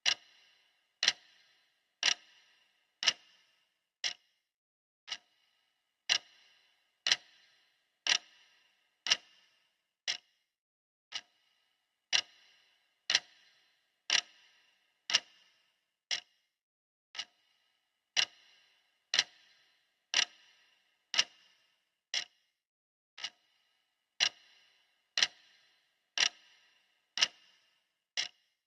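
Clock ticking, one sharp tick about every second, each with a short ring.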